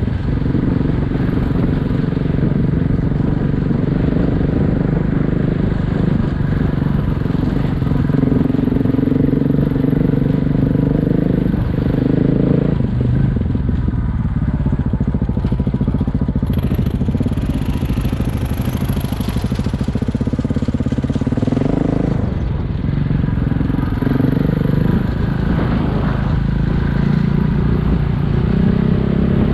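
Single-cylinder dual-sport motorcycle engine running under way, its pitch changing with throttle and gear, with marked shifts about 12 and 22 seconds in.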